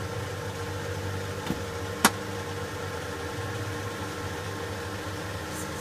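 Car engine idling steadily, with a small click about a second and a half in and a sharper click just after.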